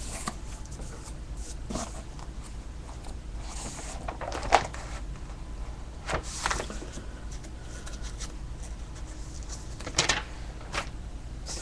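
Handling noise: a handful of short, soft rustles and taps spread out over a steady low hum.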